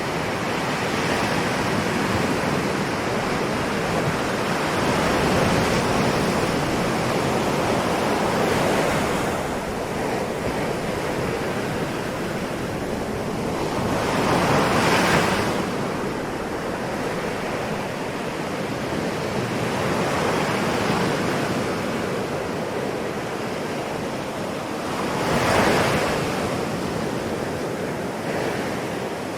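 Ocean waves washing steadily, with two louder breakers about halfway through and near the end.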